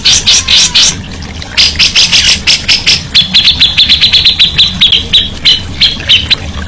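Songbird singing: a quick run of rapidly repeated high chattering notes, then a fast rattling trill of short clipped notes that slows toward the end, over a steady low hum.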